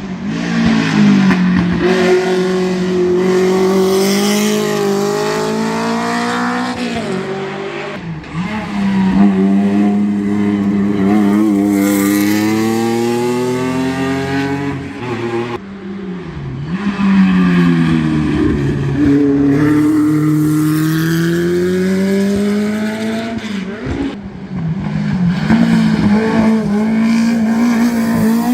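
Historic competition car's engine pulling hard up the hill, its pitch climbing through each gear and dropping at the shifts, three times over.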